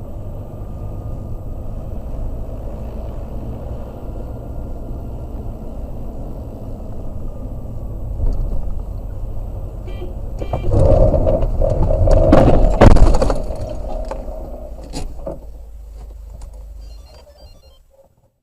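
Car's road and engine noise heard from inside, steady, rising about ten seconds in to a loud stretch with a held tone and sharp knocks, loudest about thirteen seconds in, typical of a vehicle collision, then fading away.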